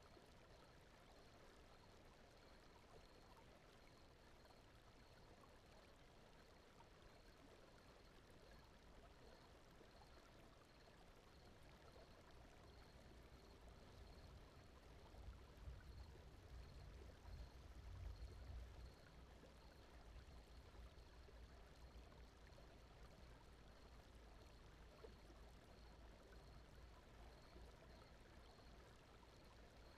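Faint, steady flowing-water ambience under brown noise, with a low rumble that swells about halfway through and then settles.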